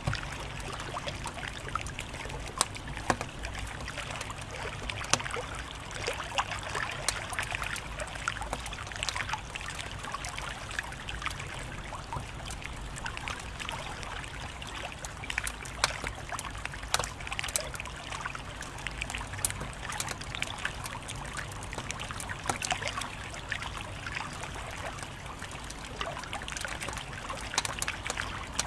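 Wood fire crackling, with frequent sharp pops and snaps scattered irregularly over a steady hiss and low rumble.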